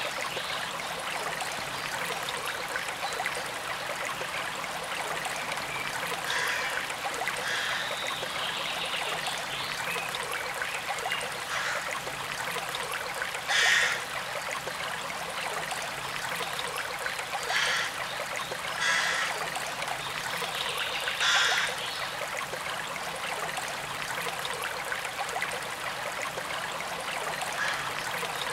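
A forest stream running and trickling steadily, with a few short, louder moments in the middle.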